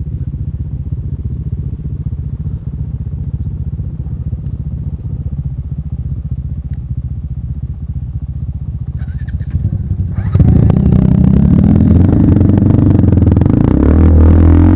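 A motorcycle engine idling steadily with a low, even pulse. About ten seconds in, louder music with guitar cuts in over it.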